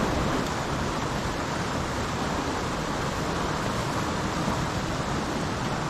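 Steady rush of a flowing mountain creek, an even hiss of moving water.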